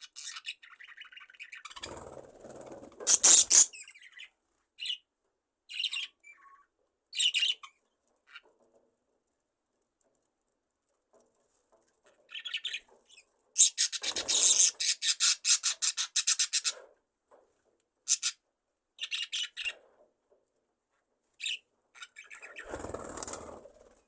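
Budgerigars chirping in short, scattered calls, with denser, louder bursts about two seconds in, again around fourteen seconds in and near the end, and a quiet gap of a few seconds in between.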